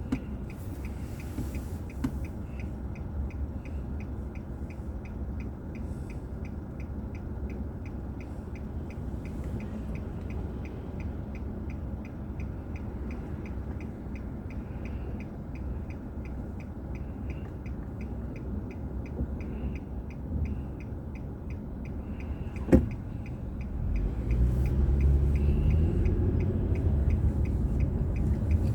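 Car engine and road noise heard from inside a car, with a steady, evenly spaced ticking like a turn-signal relay. There is one sharp click a little before the end, then the engine speeds up with rising pitch as the car accelerates.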